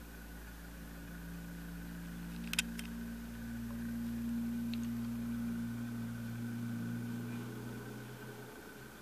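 Freight train of covered grain hopper cars rolling past at a distance: a steady low rumble and hum that swells a few seconds in and then fades, with one sharp click about two and a half seconds in.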